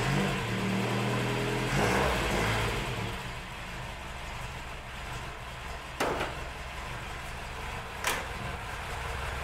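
1983 Chevrolet Chevette's carbureted 1.6-litre four-cylinder engine running loud, revved up briefly and then settling back to a steady idle about three seconds in. Two sharp knocks come about six and eight seconds in.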